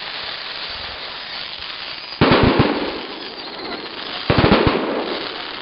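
Fireworks going off in two quick volleys about two seconds apart, each a rapid cluster of bangs and crackle that fades out, over a steady hiss.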